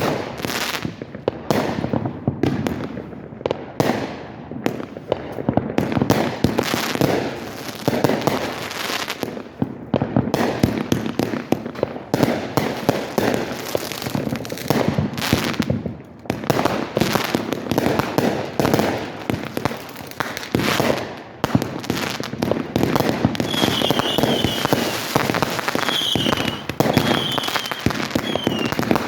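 Fireworks going off in a dense, continuous barrage of bangs and crackling. A few short, high, falling chirps come in over it in the last few seconds.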